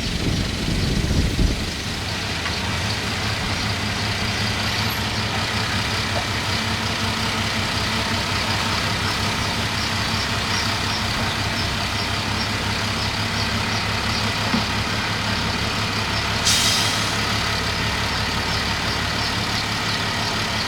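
Bulldozer's diesel engine running steadily, heavier and rumbling for the first second or so. A short sharp noise cuts through about three-quarters of the way in.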